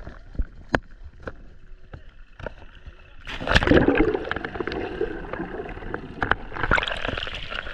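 Water gurgling and sloshing with scattered sharp knocks, and a louder rush of water about three and a half seconds in.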